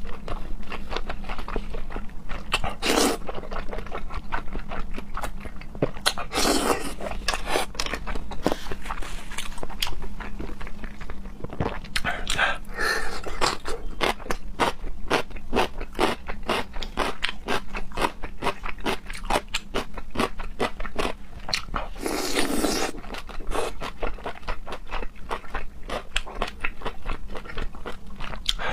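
Close-up eating sounds: a person chewing and crunching food, with many quick wet clicks and a few longer slurping or sucking sounds.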